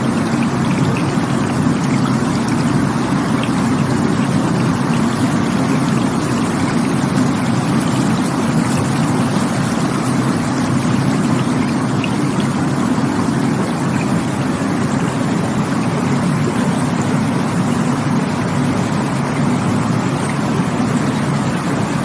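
Rushing stream water, a steady, unbroken rush with a deep, full low end.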